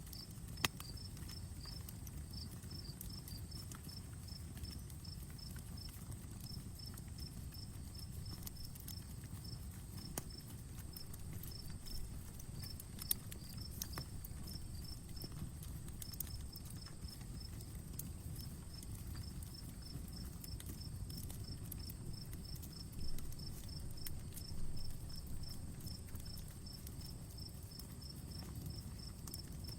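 Outdoor campfire burning with a low rumble of flames and scattered crackles and sharp pops, a loud pop about a second in and another near the middle. Insects chirp in quick, even pulses throughout, over a steady high whine.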